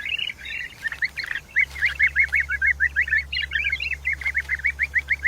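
A bird calling in a rapid series of short chirping notes, about five or six a second, which become more regular after about a second and a half. A steady low hum lies beneath.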